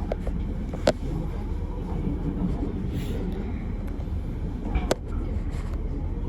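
A steady low rumble with two sharp clicks, one about a second in and one near the five-second mark.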